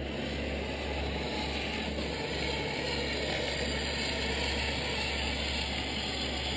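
Electric motor and gearbox of a 1/14-scale RC truck running steadily, a grinding gear noise.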